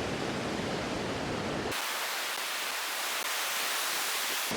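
Steady hiss of surf and wind on a beach. About two seconds in, the low rumble cuts out suddenly and a thinner, brighter hiss carries on, until the fuller noise returns just before the end.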